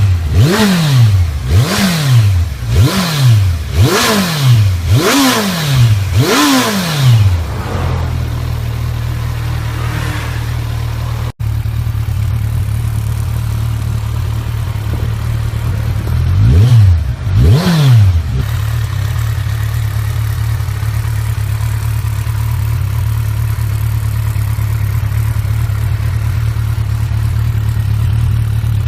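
Kawasaki Ninja 1000 inline-four running through a Nojima DLC titanium aftermarket exhaust, blipped about seven times in quick succession, roughly once a second, then settling to a steady idle. Midway it is blipped twice more before idling again to the end.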